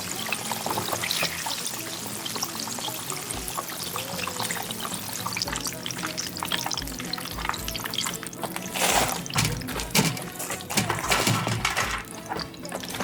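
Chicken deep-frying in hot oil: a steady crackling sizzle that grows louder and busier from about eight seconds in. Background music plays underneath.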